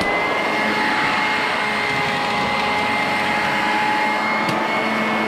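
Sanitaire SC888 upright vacuum cleaner running at full speed, a steady motor whine with airflow noise, ending in a click right at the end.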